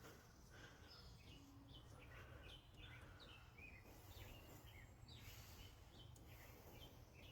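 Near silence, with faint, scattered chirps of small birds and a steady low hum.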